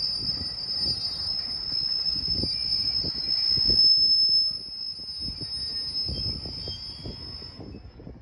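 Freight train wagons rolling past, their wheels giving a steady high squeal on the rails over irregular low knocks from the wheels over rail joints. It grows quieter from about halfway through as the train moves away.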